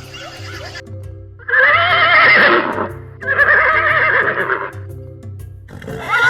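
A horse whinnying twice, each call about a second or more long with a quavering pitch, and a third starting near the end, over background music.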